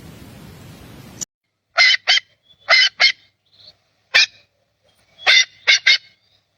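A steady background hiss cuts off abruptly just over a second in. Then a bird gives short, harsh, nasal calls in quick groups of two or three, with brief gaps between the groups.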